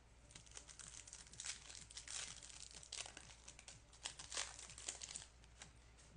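Foil trading-card pack wrapper crinkling and tearing as it is opened, a dense run of crackles lasting about five seconds.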